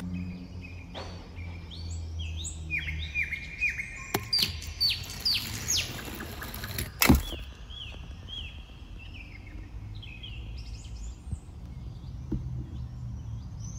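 Birds chirping: series of short, quickly repeated falling chirps, over and over. A single sharp knock about seven seconds in is the loudest sound.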